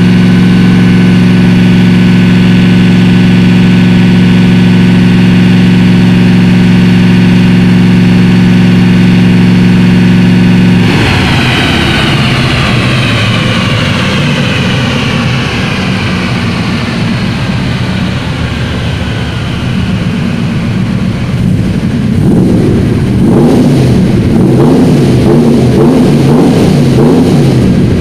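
Stroked 454 big-block Chevrolet V8 in a C3 Corvette on a chassis dyno, running at steady high revs. About a third of the way in it comes off the throttle, and a whine falls slowly in pitch as the drivetrain and rollers spin down. Near the end the engine runs unevenly at lower revs with a few blips.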